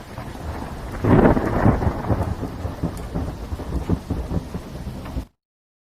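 Thunderstorm sound effect: a steady hiss of rain under a low rumble of thunder, which swells into a loud peal about a second in. It cuts off suddenly near the end.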